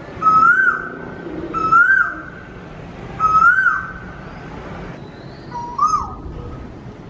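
A bird calling five times, a loud clear call that holds a note, rises, then swoops down, repeated about every one and a half seconds with a longer pause before the last call.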